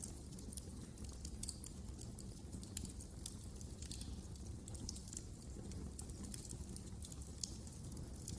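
Wood fire crackling: irregular sharp snaps and pops over a low, steady rumble of burning logs.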